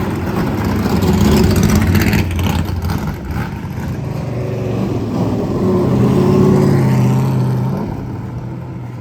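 NASCAR stock car V8 engines running loudly as the cars drive past, the engine note dropping lower partway through and fading near the end.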